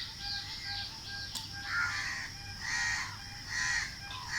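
Birds calling outdoors: a harsh call repeated about once a second through the second half, over a faint steady background of other birdsong.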